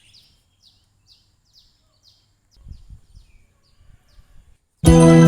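A small bird chirping: a run of short, high, falling chirps, about two a second, with a few faint low knocks in the middle. Near the end, loud background music starts suddenly.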